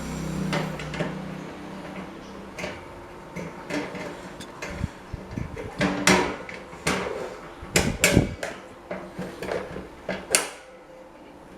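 An electric desk fan's motor hum dies away at the start, followed by a run of irregular clicks and knocks from the fan being handled and switched, the loudest about six, eight and ten seconds in.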